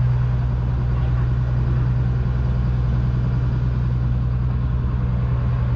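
A boat's engine running steadily, a constant low hum that does not change.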